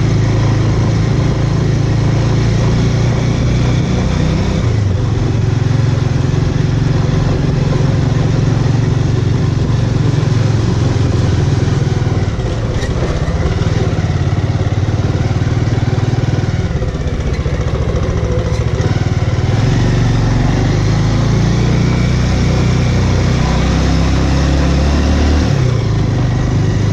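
Single-cylinder engine of a Bajaj Avenger cruiser motorcycle running as it is ridden, a steady low drone with road and wind noise over it, dipping briefly about twelve seconds in.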